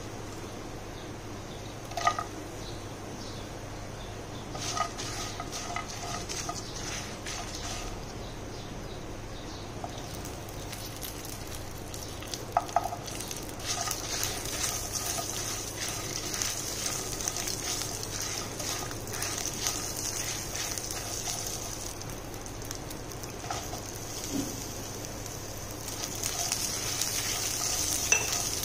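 Whole spices, dried red chillies and cashews sizzling in hot oil in a nonstick pan while being stirred with a spatula, with a few sharp knocks. The sizzle grows louder about halfway through, as garlic and more ingredients go in, and again near the end.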